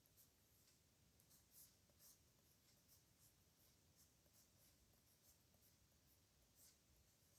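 Pen nib scratching faintly on paper in short, irregular strokes of handwriting.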